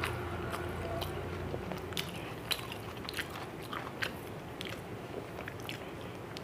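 Close-miked chewing of a mouthful of rice, with irregular wet mouth clicks and smacks, and fingers working through rice on a plate.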